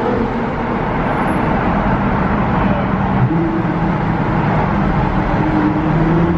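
Nissan GT-R R35's twin-turbo V6 pulling hard through a custom titanium cat-back exhaust in a tunnel, a loud, steady exhaust note. The owner says it sounds ridiculous.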